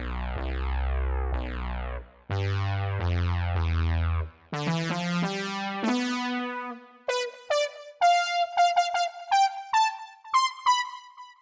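ReFx Nexus synthesizer presets played one after another: held synth chords over a deep bass, broken twice by short pauses, then a keyboard phrase, then a run of short, quickly fading high notes.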